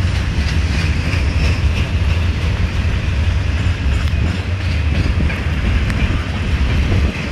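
Freight cars of a passing CSX freight train rolling by close up: steel wheels on the rails making a steady loud low rumble, with a few sharp clicks in the second half.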